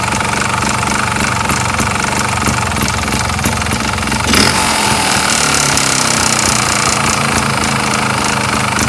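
Sherco ST250 trials bike's two-stroke single-cylinder engine running with a knocking rattle, which the owner suspects is piston slap. About four seconds in the revs rise briefly, and the engine runs a little louder after that.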